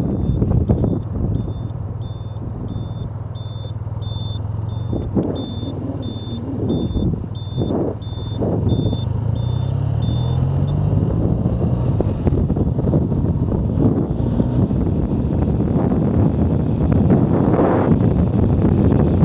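BMW R100RT flat-twin motorcycle engine running under wind noise. A short high beep repeats steadily about one and a half times a second until about ten seconds in. Around then the engine note rises as the bike speeds up.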